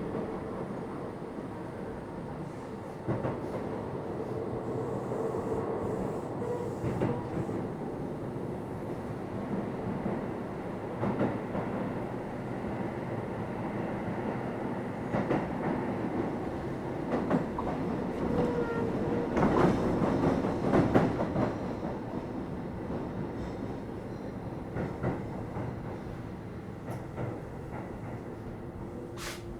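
Keio 7000 series electric train running, heard from inside the car: a steady rumble broken by scattered clacks of the wheels over the rails. It grows louder and busier about two-thirds of the way in.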